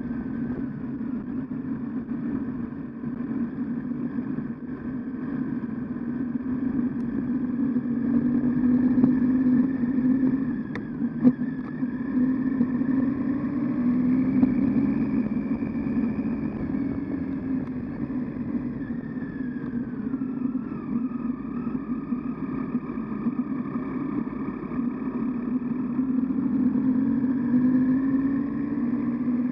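Triumph Tiger 800XC's three-cylinder engine running at low trail speed, its pitch rising and falling with the throttle. There is one sharp knock about eleven seconds in.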